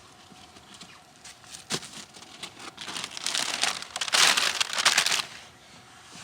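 Rustling and crinkling, with a few light ticks at first, building to a dense burst about four to five seconds in that stops shortly after.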